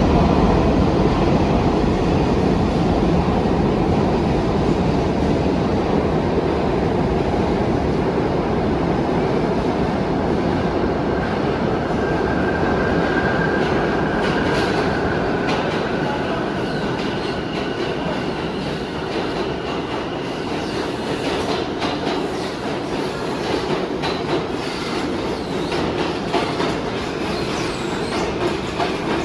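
New York City subway train running through an underground station: a steady loud rumble and clatter of steel wheels on the rails. A thin wheel squeal rises out of it about halfway through, and the noise eases a little after that.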